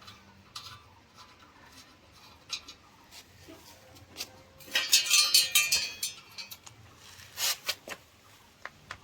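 Metal hand tools clinking as a spanner is used on the exhaust bolts: scattered clicks, with a burst of ringing metallic clinks about five seconds in.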